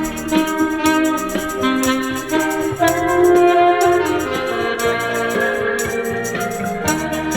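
Saxophone playing a melody of long held notes over a backing track with keyboard and a steady beat.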